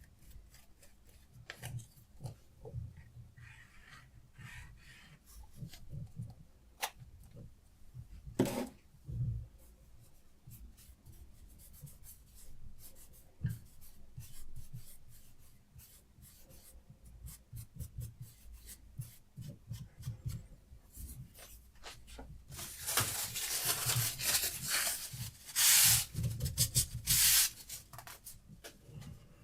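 Diamond sharpening stone on a Hapstone RS guided sharpener rasping along a knife blade's edge in repeated short strokes. The strokes grow louder over the last several seconds.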